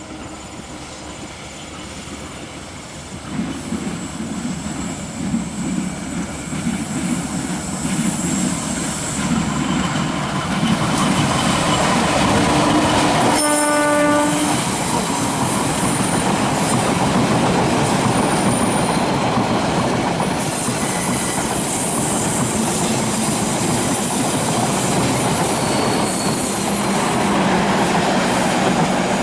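Passenger train passing close by: wheels clacking over rail joints and rumbling, building up over the first ten seconds and then staying loud. About halfway through the locomotive gives one short horn blast of a bit over a second.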